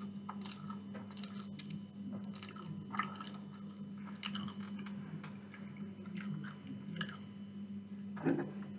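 Close-miked chewing of a mouthful of food, with irregular wet mouth clicks and smacks, over a steady low hum.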